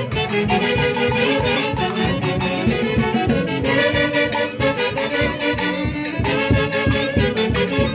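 Live band music from a Peruvian orquesta típica of the Huancayo region: several reed and wind instruments playing a melody together in chords over a steady dance beat.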